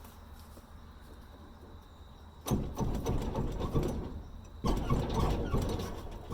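Fiat-Allis 11-B dozer engine being turned over in two short bursts, each about two seconds long, about two seconds apart.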